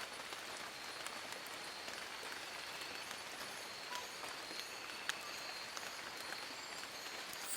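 Steady rain falling on forest leaves, a dense patter with individual drops ticking through it. Behind it there is a faint, steady, high-pitched whine and a few short, high chirps.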